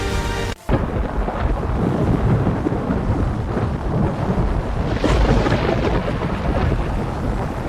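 Background music cuts off about half a second in. A loud, sustained rumbling roar with a rushing hiss follows, surging louder about five seconds in.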